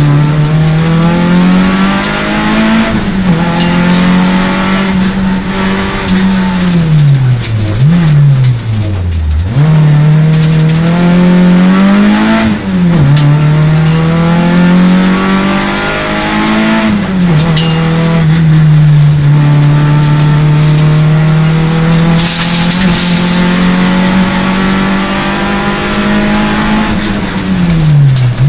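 Peugeot 106 rally car's four-cylinder engine heard from inside the cockpit, driven hard at high revs. Several times the revs drop steeply off the throttle and under braking, then climb again through the gears.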